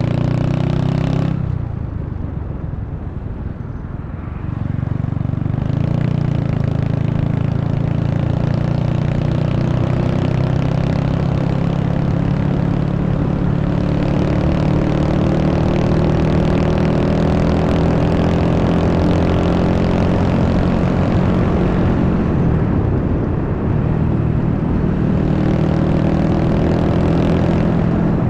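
Honda Wave 125's single-cylinder four-stroke engine running while being ridden, with wind rushing over the microphone. The engine eases off about two seconds in, then its pitch climbs slowly as the bike gathers speed, easing briefly again near the end.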